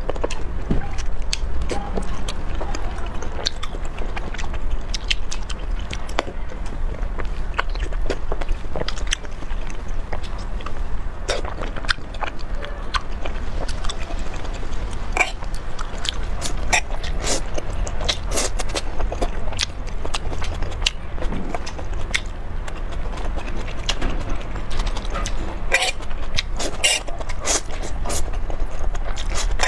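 Close-miked eating: biting and chewing with many short, sharp mouth clicks, and slurping of noodles near the end, over a steady low hum.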